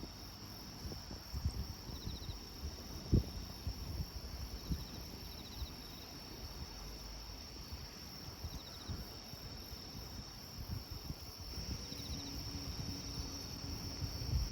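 Insects chirring steadily, with short cricket-like trills repeating every second or two, over soft irregular crackling from a campfire and one sharper pop about three seconds in.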